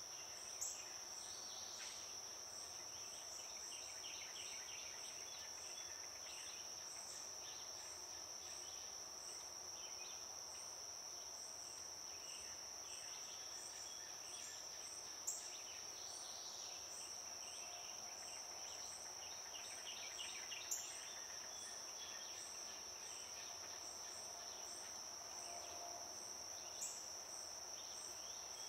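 Steady, high-pitched insect drone, with faint bird chirps and a few sharp clicks.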